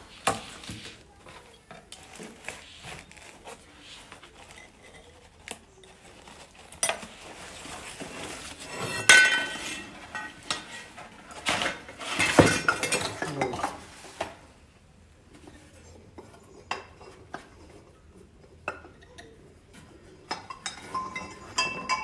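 Metal tubes and parts of a wind chime clinking and knocking against each other as they are lifted out of the packaging, with louder ringing clinks about nine and twelve seconds in.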